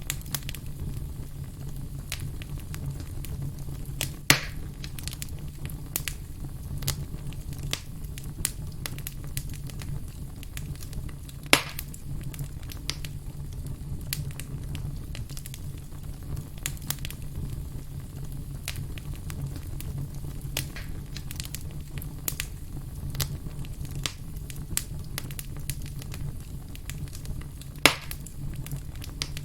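Campfire crackling, with a steady stream of small snaps over a constant low rumble. Three louder pops stand out: about four seconds in, about twelve seconds in, and near the end.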